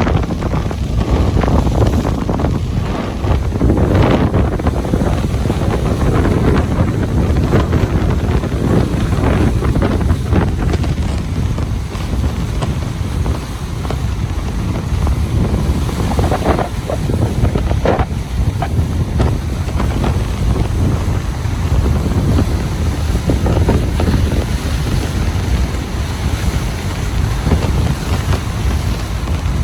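Ocean surf washing onto a beach, a steady rolling wash with a heavy wind rumble on the microphone.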